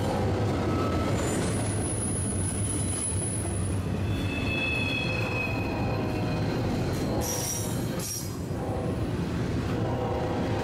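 Double-stack intermodal freight cars rolling past with a steady rumble of wheels on rail, and several thin, high-pitched wheel squeals that come and go.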